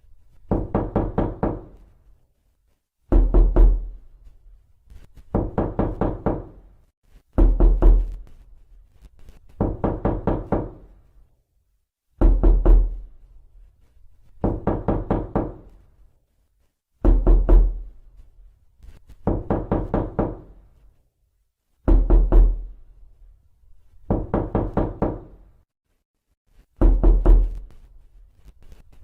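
Knocking on a door in a repeating pattern: a quick run of raps, a short pause, then a second, longer run of raps. The pair repeats roughly every five seconds.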